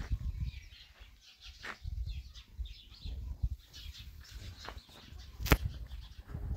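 Small birds chirping again and again, over dull thumps of footsteps on concrete steps; a single sharp click about five and a half seconds in.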